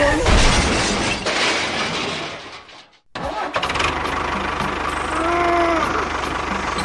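A loud, noisy crash-like sound fades away over the first three seconds and cuts off. Then an engine starts up and idles steadily with a fast, even low knock, and a brief rising-and-falling tone sounds over it about halfway through.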